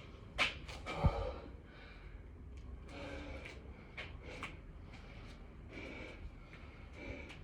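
Heavy, hard breathing of a man exercising, with breaths coming every second or so, and a single thud about a second in.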